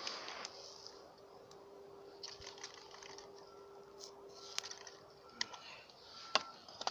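Campfire crackling: irregular sharp snaps and pops of burning wood, the loudest near the end, with a faint steady whistle for much of the time.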